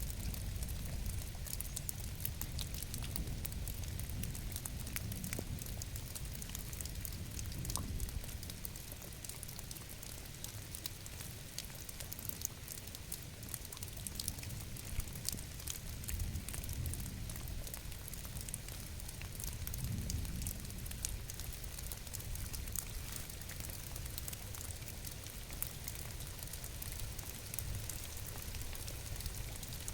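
Steady rain falling, a dense patter of fine drop ticks over a low rumble.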